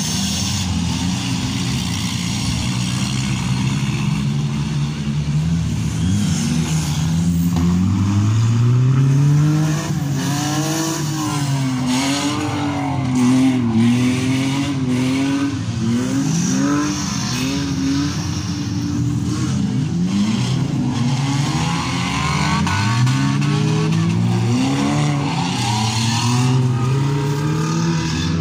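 Several demolition derby cars' engines revving up and down over one another, their pitch repeatedly rising and falling, with a few sharp knocks.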